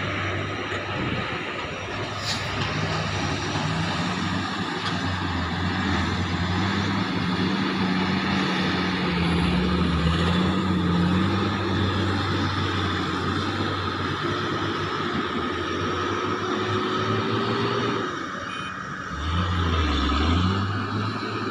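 Diesel engines of heavy mining machinery, a large excavator and dump truck, running steadily under load, with a steady high whine over the engine note. Near the end the engines ease off briefly, then rev up again.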